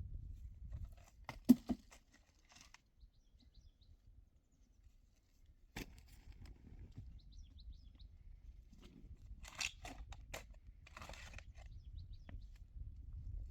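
Scattered knocks and crunching, the sharpest knock about a second and a half in, over a low rumble, with a few faint bird chirps.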